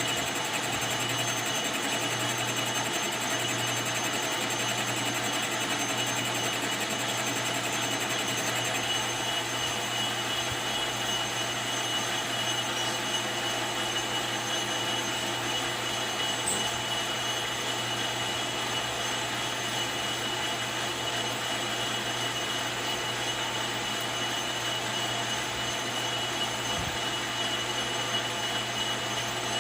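Lathe machine running steadily: a continuous machine noise with a few constant whining tones, unchanging throughout.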